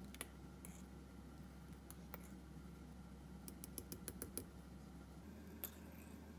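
Faint, scattered light clicks and taps, with a quick run of about six clicks a little past the middle, over a low steady hum.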